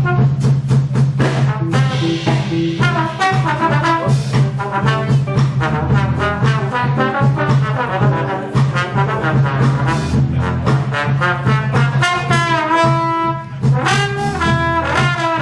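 Jazz big band playing, with trumpets and trombones prominent over saxophones, drum kit and a sustained bass note.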